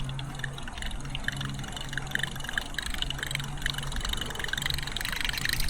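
Buzzbait being retrieved across the water surface on a spinning reel, its blade gurgling and spattering in a run of small irregular splashes over a broken low hum.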